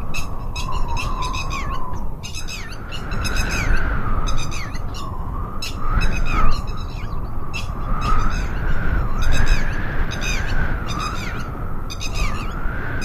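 Birds calling in repeated bursts of rapid, raspy, squawking notes, some ending in short downward slurs, over a continuous wavering tone and a steady low rushing background.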